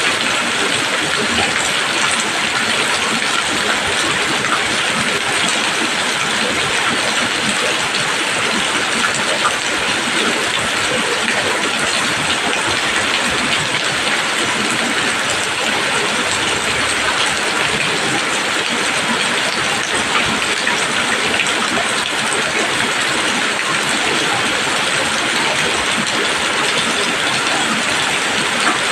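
Steady rain falling on leaves, a dense, even patter that keeps up without a break.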